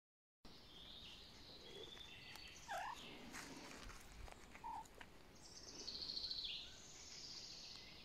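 Faint songbirds singing, with several short chirps and whistles overlapping and a fast trill after about five seconds.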